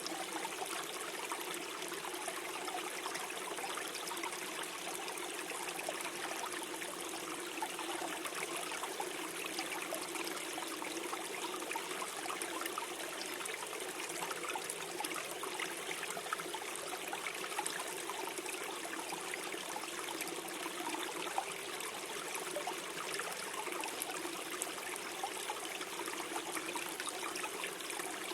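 Small forest stream flowing and gurgling over stones, an even, steady water sound.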